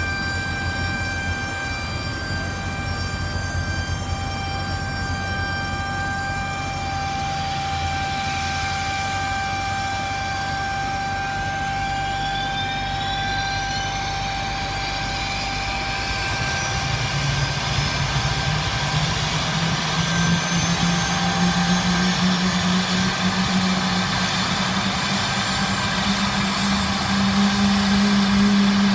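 Embraer 170 jet at the gate: a steady multi-tone whine, then about ten seconds in a GE CF34-8E turbofan begins spooling up during engine start, with whines climbing in pitch and a low hum rising and settling as the sound grows louder toward the end.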